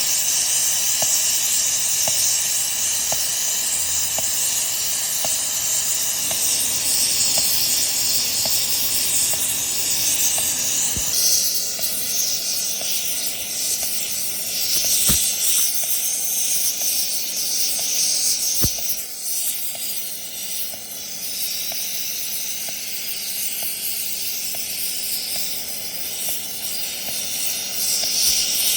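Steady high hiss, with faint ticks about twice a second during the first ten seconds or so; the sound changes character about eleven seconds in.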